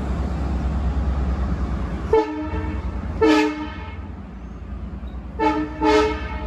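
Long Island Rail Road train horn sounding four times in two short-long pairs, a chord of several steady notes, over a steady low rumble.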